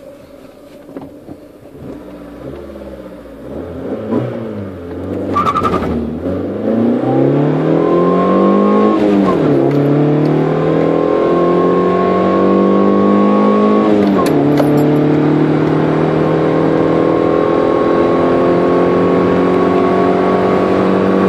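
1991 Honda Civic 1.4 GL's twin-carburettor four-cylinder engine, heard from inside the cabin, accelerating hard from a quiet start: the revs climb, drop sharply at gear changes about nine and fourteen seconds in, then climb steadily again.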